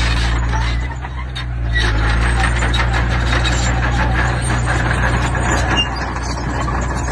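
Heavy diesel construction machine running steadily, with a dense clatter of stones scraping and tumbling from about two seconds in until about six seconds in.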